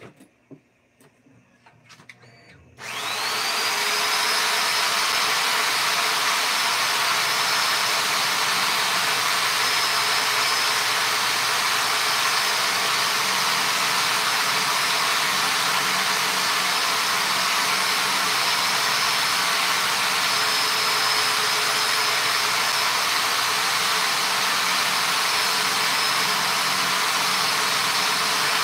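An electric workshop tool's motor switches on about three seconds in, spinning up with a rising whine that settles into a steady high note over a loud rushing noise, and keeps running evenly. A few faint clicks come before it starts.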